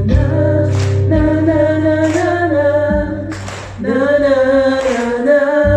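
Live singing: a voice holds long, wavering notes over a low sustained accompaniment, with short breaths between phrases. The accompaniment thins out and the sound dips briefly just before four seconds in.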